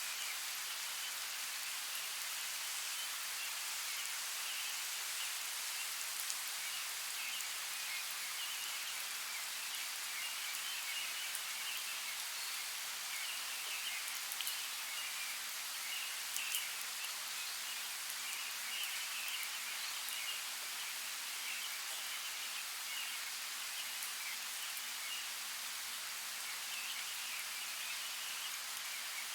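Steady hiss of water in a forest soundscape, with a few sharp drip-like ticks and faint fluttering high chirps running through it.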